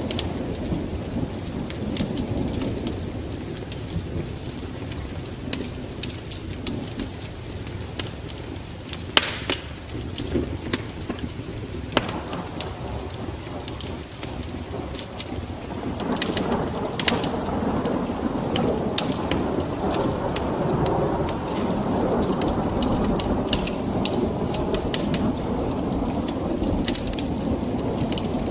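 Wood fire burning in a fireplace: sharp, irregular crackles and pops over a low rumble of flames, with the rumble growing louder about halfway through.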